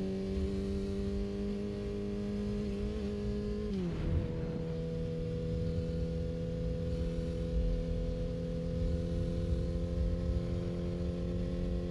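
Yamaha R6's inline-four engine running at steady revs while riding, over a constant low wind rumble. About four seconds in, the engine note drops quickly to a lower pitch and then holds steady again.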